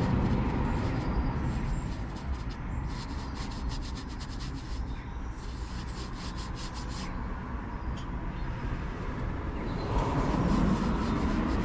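Paintbrush stroking paint onto a wooden shed door, a run of quick rubbing strokes that is busiest in the middle.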